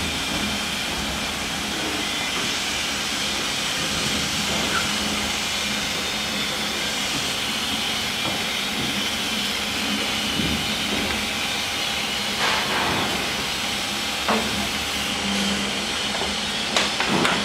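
Waste engine oil purifier machine running with a steady hiss and a faint low hum. A few sharp knocks come near the end.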